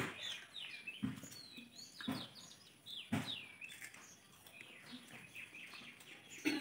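Small birds chirping over and over, short falling notes, with a few soft thumps about once a second.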